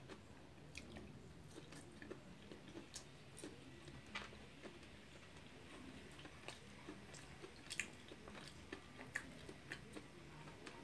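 Faint chewing and mouth sounds of a person eating steamed chicken, with irregular soft clicks and smacks.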